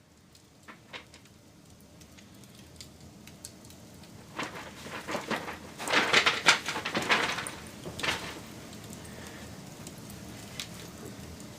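Wood fire crackling: it fades in, builds into a dense run of loud snaps and pops through the middle, then settles to a steady hiss with an occasional pop.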